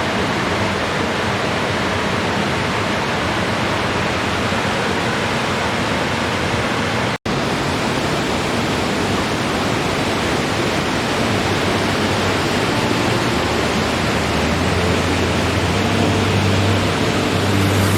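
Waterfall rushing, a steady loud wash of falling water that cuts out for an instant about seven seconds in. A low steady hum comes in near the end.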